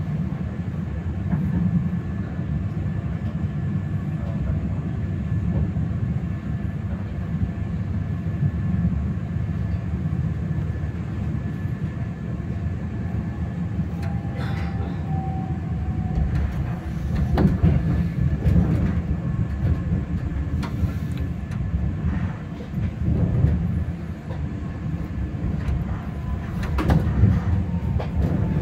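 Running noise heard from inside a moving passenger train: a steady low rumble with clicks and knocks of the wheels over rail joints and points, which come thicker from about halfway through. Near the end another train passes close alongside.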